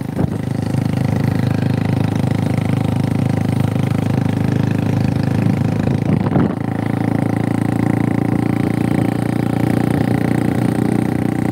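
Motorcycle engine running steadily at an even pitch, with a brief rustle about six seconds in.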